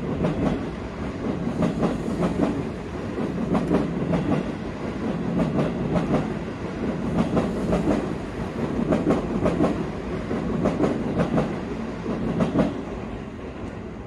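Seibu 20000 series electric commuter train running past and pulling away, its wheels clicking over the rail joints in repeated clusters over a steady rumble. It fades near the end.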